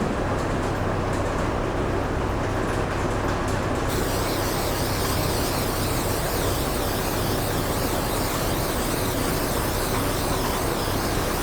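Steady mechanical drone with a low hum throughout, joined about four seconds in by a steady high hiss that lasts to the end.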